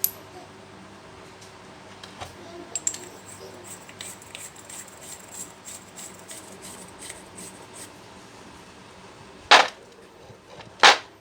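Light clicks and clinks of metal tools and parts being handled during a jackhammer repair, then two loud, short bursts near the end.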